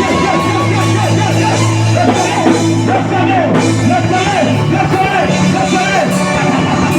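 Loud worship music, held keyboard chords over a sustained bass, with voices singing and crying out over it.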